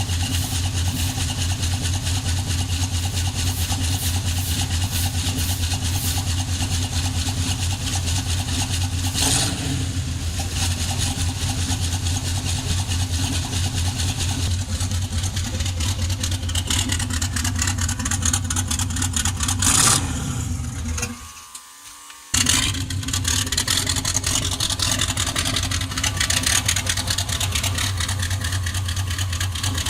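Chevrolet 350 small-block V8 idling steadily with a low, even pulsing. About two-thirds of the way through the sound drops away for a second or so and comes back suddenly.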